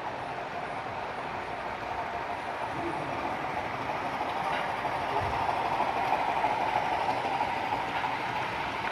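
HO scale model train running on the track, a steady rolling hum of wheels and motor that grows louder about halfway through as it draws closer.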